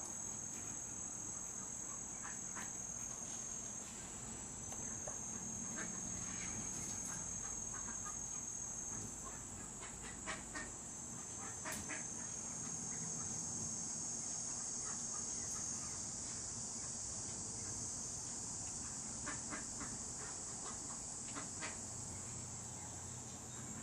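Steady high-pitched insect chorus, a continuous shrill drone, with a few short chirps scattered through it.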